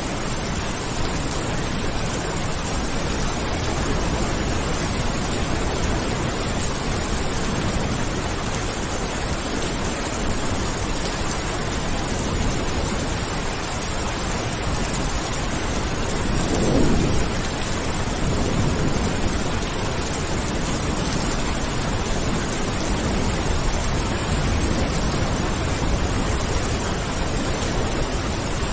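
Steady heavy rainfall, with a rumble of thunder swelling up briefly about halfway through.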